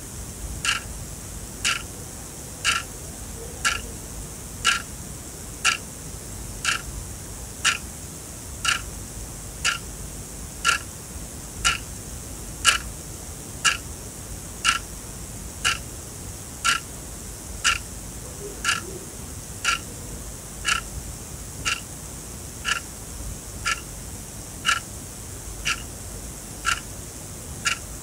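Sonam Quartz analog alarm clock ticking steadily as its second hand steps, one louder tick about once a second with a fainter click between. The alarm is not ringing.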